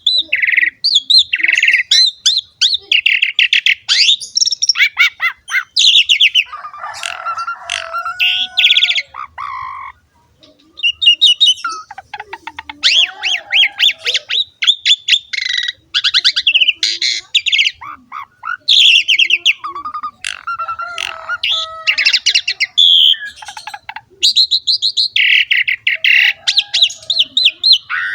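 Pied starling (jalak suren) singing a loud, varied song: fast rattling trills and squawking chatter mixed with whistled notes, with a short pause about ten seconds in.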